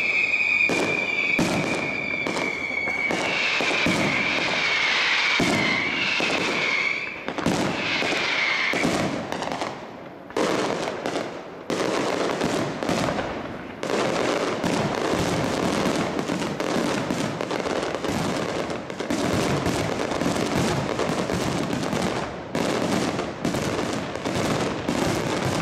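Large fireworks display: a dense, rapid stream of aerial shell bangs and crackle with hardly a pause. High whistling tones run over the bangs for the first several seconds and then fade.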